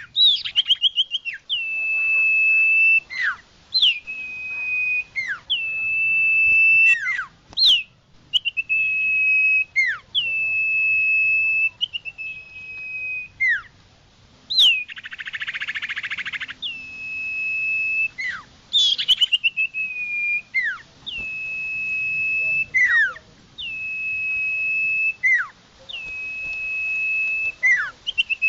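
Common iora (cipoh/sirtu) singing a repeated lure song. Each phrase is a clear whistle: a quick upward flick, a note held steady for about a second, then a falling tail note, repeated every second and a half or so. A harsh, buzzy call breaks in about halfway.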